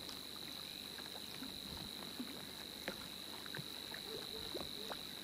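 Light rain: scattered drops tick irregularly on the boat and the water. A steady, faint, high-pitched whine runs underneath.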